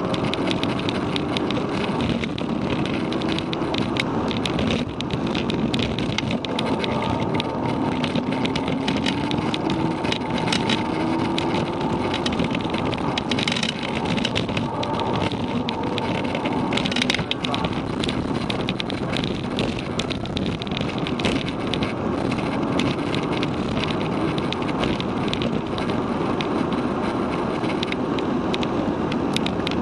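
Volkswagen Mk6 Golf GTI's turbocharged 2.0-litre four-cylinder engine heard from inside the cabin at speed, its pitch rising and falling as the car accelerates, shifts and slows. It sits over steady road and wind noise, with frequent light clicks.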